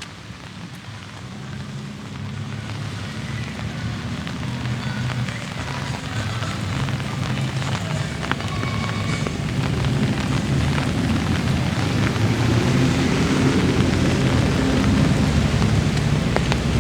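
Light rain falling steadily, with a low road-traffic rumble that builds and grows louder.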